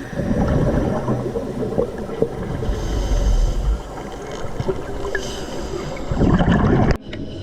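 Underwater scuba sound: a diver's exhaled bubbles from the regulator rumble in two bursts about six seconds apart, over a steady wash of water. The sound cuts off abruptly near the end.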